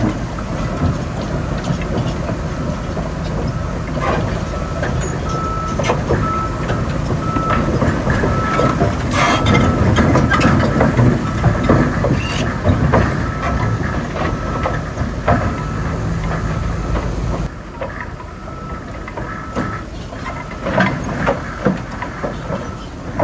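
Heavy diesel earthmoving machinery working, a bulldozer and dump trucks, with a deep engine rumble, scattered metallic knocks and clanks, and a reversing alarm beeping steadily. The low rumble drops off abruptly near the end.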